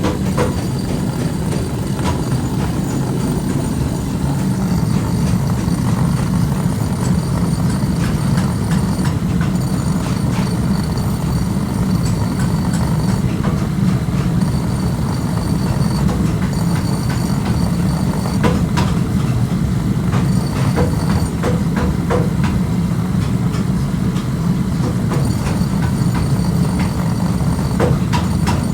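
Steady low rumble of workshop machinery running, with scattered metallic clicks and knocks and a faint high whine that comes and goes.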